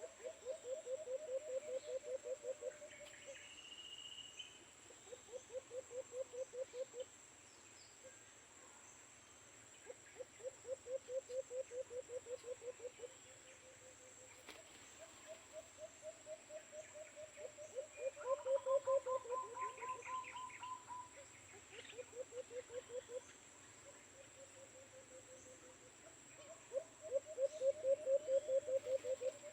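Doves giving low rolling coos: pulsed trilled series about two seconds long, repeated every few seconds. Under them runs a steady high insect drone, with a few brief higher chirps from other birds.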